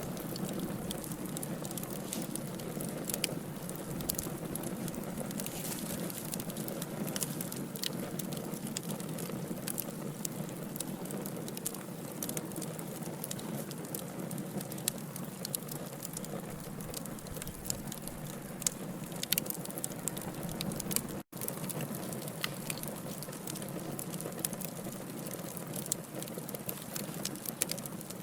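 Wood logs burning in a fireplace: a steady low rush of flame with frequent irregular crackles and sharp pops. There is a split-second cut-out about three-quarters of the way through.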